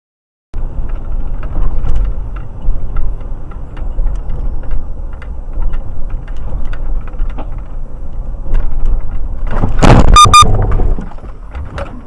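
Car driving, with a steady low road and engine rumble and small rattles and clicks. About ten seconds in, a loud rush of noise peaks with two short horn beeps.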